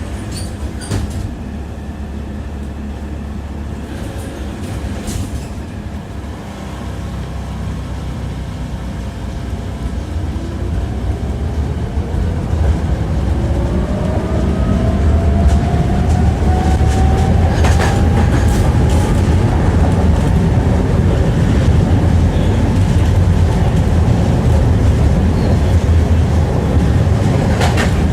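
Electric tram picking up speed: its motor whine rises in pitch over several seconds while the running rumble grows louder. A few sharp clicks of the wheels over rail joints come through.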